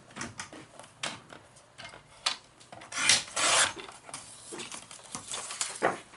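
Paper being handled and cut into a strip: rustling, light taps and scraping, with one longer scraping stroke about three seconds in.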